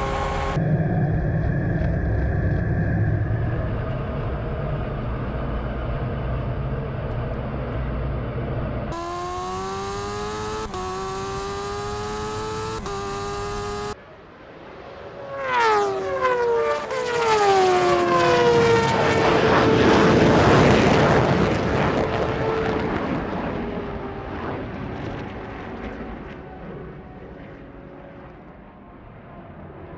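High-revving racing engines at full throttle: after a low rumble, one engine climbs in pitch through several quick upshifts, then after a cut engine notes fall away in pitch as vehicles pass by, followed by a loud rushing noise that swells about twenty seconds in and slowly fades.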